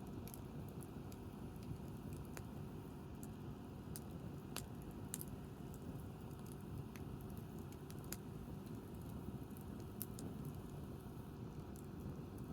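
Wood campfire crackling: sharp, irregular pops and snaps of burning wood over a low, steady rush.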